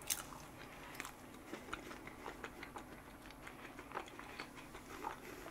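Faint close-up chewing of soft chocolate cream cake: scattered small wet mouth clicks and smacks, with one sharper click just at the start.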